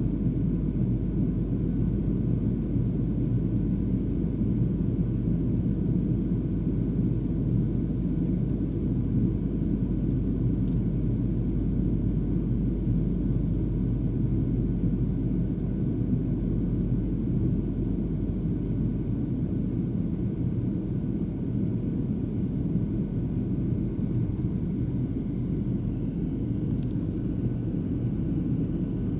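Airliner cabin noise in flight: a steady low rumble of the engines and airflow, with the deepest part of the rumble easing slightly about two-thirds of the way through.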